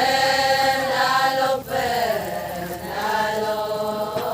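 Several voices chanting an Adi Ponung folk song together in long held notes, with short breaths between phrases.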